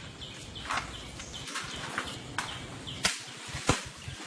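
Several sharp cracks or knocks at irregular intervals, the loudest about three seconds in. Under them, short high chirps fall in pitch, repeating about three times a second over outdoor background noise.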